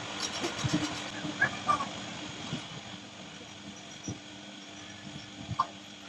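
Metal lathe running with a steady hum, with short sharp squeaks and clicks now and then, the loudest about one and a half seconds in.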